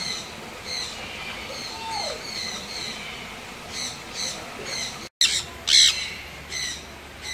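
Birds squawking and chirping in many short, overlapping calls. The sound drops out for an instant about five seconds in, then a louder squawk follows.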